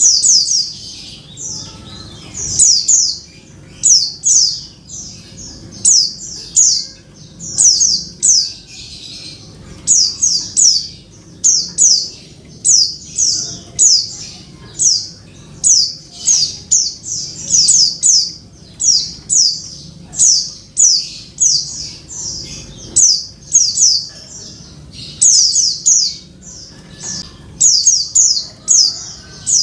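Female pleci (white-eye) calling: short, high, downward-sweeping chirps in quick clusters of two to four, repeated about once a second throughout. This is the call of a female used to lure a male into singing.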